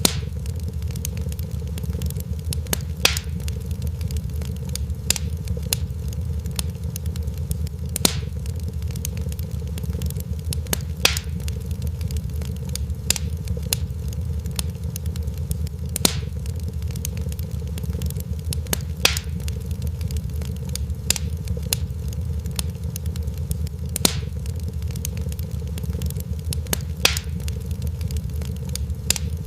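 Crackling fire: a steady low rumble of burning with sharp pops and snaps scattered through it. The louder pops fall in the same pattern about every eight seconds.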